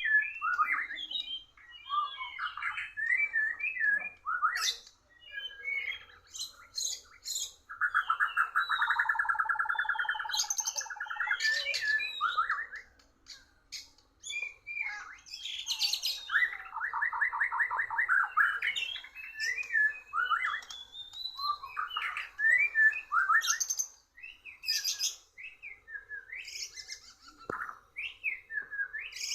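White-rumped shama (murai batu) singing a long run of varied whistled phrases, broken by rapid rattling trills about eight seconds in and again about sixteen seconds in.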